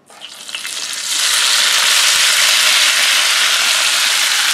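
Sliced seasoned red and white onions hitting the hot bacon grease on a Ninja Foodi Smart XL Pro griddle plate. The sizzle builds over about the first second and then runs loud and steady.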